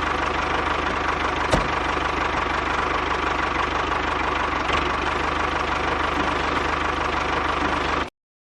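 Small engine running steadily with a fast, even knocking beat. It cuts off suddenly near the end.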